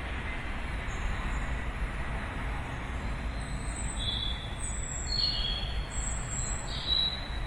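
Birds chirping, a run of short high calls coming every half second or so from about three seconds in, over a steady low rumble of distant city noise.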